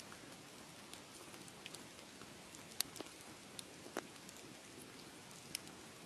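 Wood fire crackling: a steady low hiss with a handful of sharp pops scattered through it, the loudest a little before the middle.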